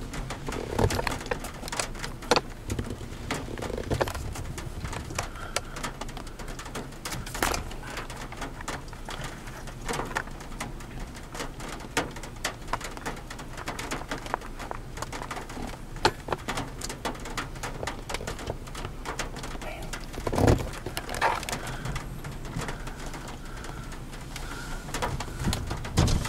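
Birds calling over an open-air background, with scattered clicks and one louder knock about twenty seconds in.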